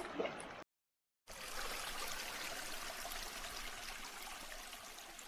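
A brief gap of silence about a second in, then a shallow stream of hill water running steadily over stones, slowly fading toward the end.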